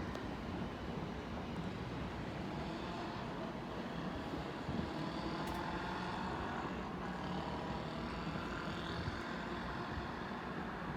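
Hikari Rail Star Shinkansen train running: a steady rumble and rush, with a faint motor whine that shifts in pitch through the middle.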